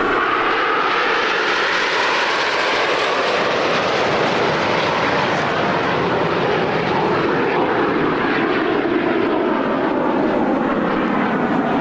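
Aermacchi MB-339 jet trainers flying past, their turbojet engines making a loud, steady noise whose pitch slowly falls as they go by.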